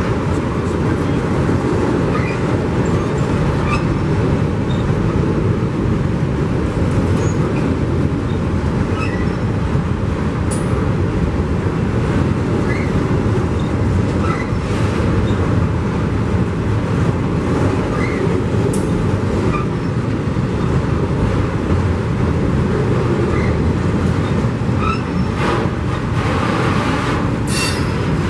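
A train rolling past on the tracks: a steady, loud rumble throughout, with brief faint high chirps and a few short clicks scattered through it.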